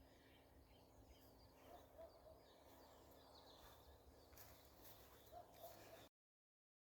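Faint dawn woodland ambience with distant birds chirping, then the sound cuts off to dead silence about six seconds in.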